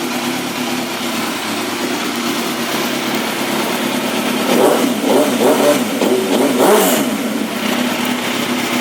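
A 2003 Suzuki GSX-R1000's inline-four, fitted with a Yoshimura exhaust, idling steadily, then revved in several quick blips in the second half.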